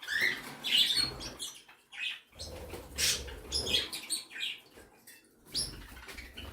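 A mixed flock of small pet birds, budgies and other parakeets among them, chirping and chattering in many short calls, with some low rustling or fluttering between them.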